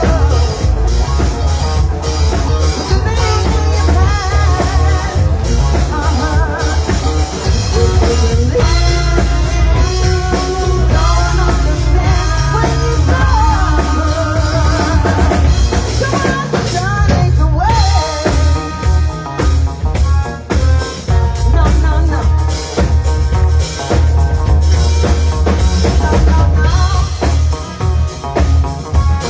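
A band playing, with drum kit, a heavy bass line and a singing voice.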